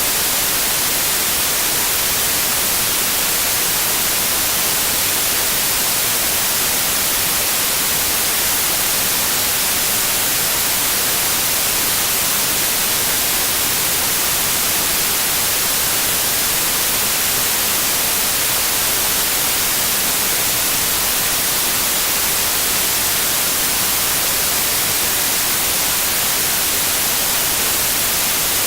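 Steady white noise, an even hiss strongest in the high frequencies and unchanging throughout.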